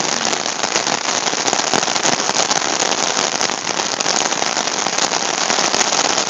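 Heavy downpour falling on an umbrella overhead: a steady, dense hiss of rain made of countless small, sharp drop hits.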